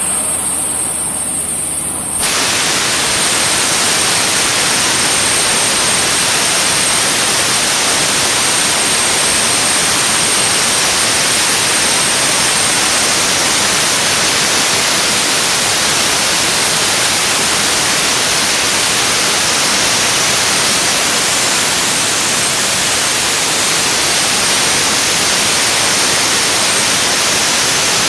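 Abrasive blaster spraying crushed glass media at a steel truck frame: a loud, steady hiss of air and grit. It fills out into a fuller blast about two seconds in, with a thin high whistle running under it.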